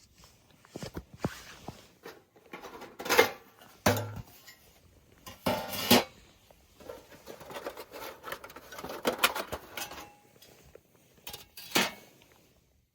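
Thin titanium wood-stove parts clinking and rattling as they are handled and fitted together, with a few sharper metal clanks.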